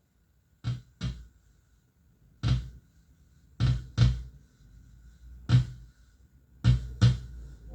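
Deep, punchy electronic drum hits from a loop station, mostly in pairs about half a second apart, in a slow, sparse beat.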